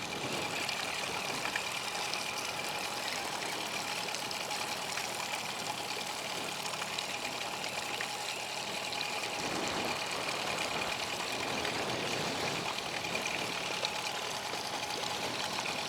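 Hidea 9.9 outboard motor running steadily at low, even revs, as for trolling, with water and wind noise over it.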